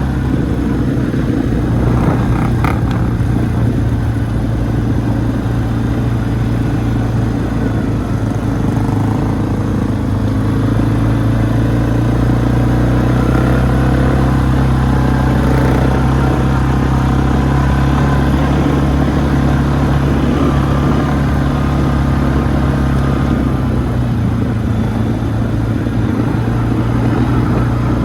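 ATV engine running steadily while riding, a loud low drone that holds nearly even in pitch and level.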